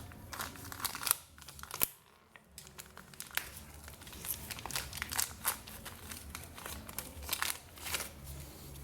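Crinkling and rustling with scattered small clicks from gloved hands handling a part one-handed.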